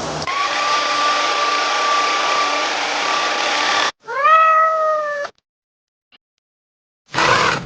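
A cat gives one drawn-out meow about four seconds in, after a steady hiss with a thin whistling tone that cuts off suddenly. Two short noisy bursts follow near the end.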